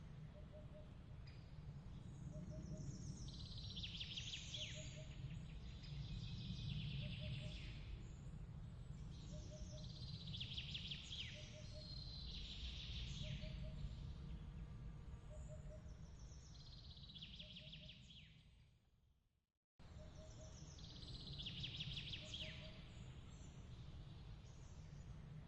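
Layered nature ambience: birds chirping in short phrases every few seconds over a low steady rumble, with a faint double chirp repeating about every second and a half. About 19 seconds in, the sound fades out and cuts back in abruptly, where the ambience loop restarts.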